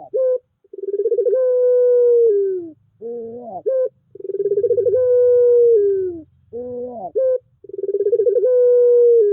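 Puter pelung dove cooing: three long, low coos about three seconds apart. Each starts with a fast rattle, holds a steady note and drops in pitch at the end, with short rising notes between the coos.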